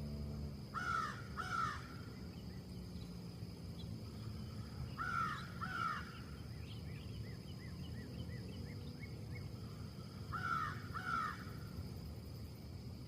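A bird calling three times, each time a pair of short, harsh, downward-falling calls, with a run of faint quick chirps from another bird between them. A steady low rumble runs underneath.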